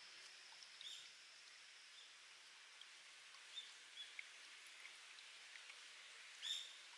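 Faint steady trickle of spring water, with a few short high-pitched plinks scattered through it, the loudest near the end.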